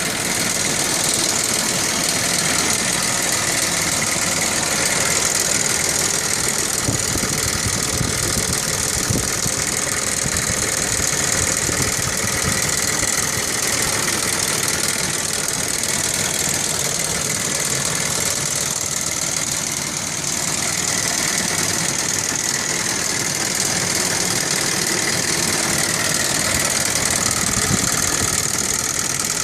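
Audi 2.8 V6 5-valve engine idling steadily with a loud, fast clattering valve noise from the front of the driver-side valve cover. The owner says this is not how it should sound and suspects a faulty chain tensioner.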